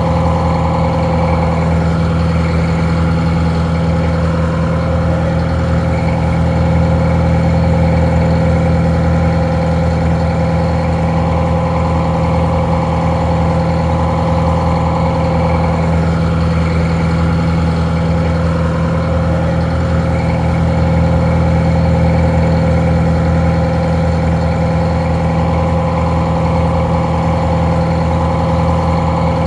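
Four-cylinder two-stroke 4-71 Detroit Diesel engine idling steadily.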